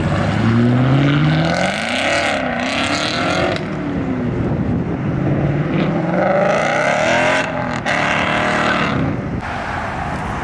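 Car engine revved hard as the car accelerates away. Its pitch climbs over the first two seconds, wavers, then climbs again about six to seven seconds in, over a steady roar of exhaust and tyres.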